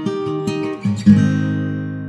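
Guitar music: a few plucked notes, then a strummed chord about a second in that is left to ring and slowly fade.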